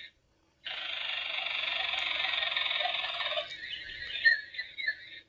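Plush coin bank's small built-in speaker playing a recorded animal-sound clip. It starts abruptly about half a second in, holds steady for about three seconds, breaks into short chirps, and cuts off just before the end.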